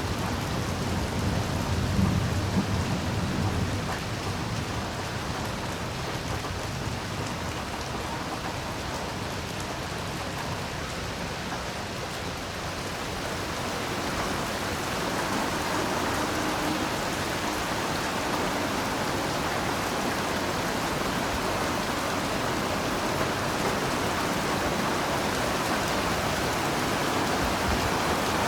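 Heavy rain falling steadily, with a low rumble of thunder in the first few seconds. The rain grows louder about halfway through.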